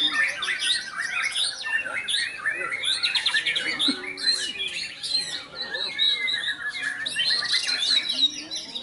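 Several songbirds singing at once in a dense, continuous tangle of fast chirps, trills and squawks, with no pause.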